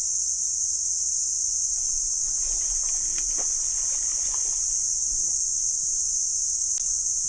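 Chorus of cicadas, a steady high-pitched shrill buzz that holds without a break.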